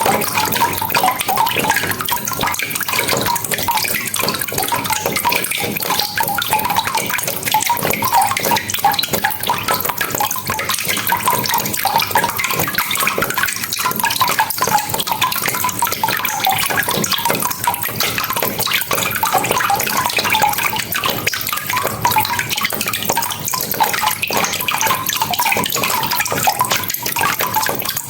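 Steady rain falling, a dense, even wash of countless drop impacts that keeps up without a break.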